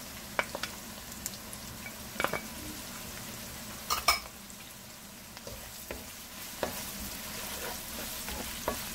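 Chopped onion and crushed garlic sizzling in hot oil in a non-stick pan, with wooden chopsticks clicking and scraping against the pan as they are stirred; the loudest knock comes about four seconds in.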